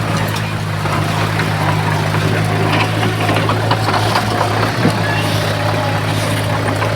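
Diesel engine of a Komatsu bulldozer running at a steady pitch, with scattered clanks and rattles over it, most of them in the middle.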